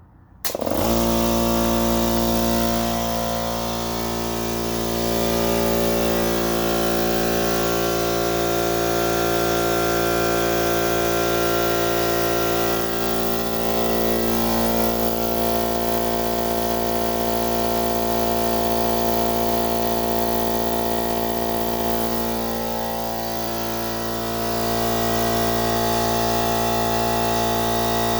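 Central Pneumatic 2-horsepower 8-gallon air compressor starting up promptly under a second in, then running steadily as it pumps up the tank. The new capacitor has cured its failure to start.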